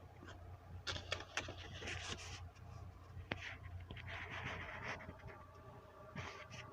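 Hands arranging snack food on a plate: light rustling and scraping with small clicks, in a few short flurries over a low steady hum.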